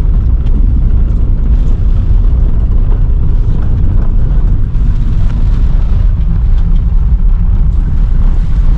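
Loud, steady low rumble of a car on the move.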